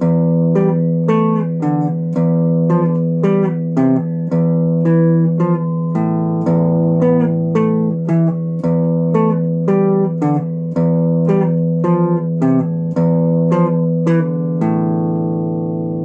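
Acoustic guitar played fingerstyle, plucked notes at about two a second over ringing bass notes. Near the end a final chord is left to ring and fade.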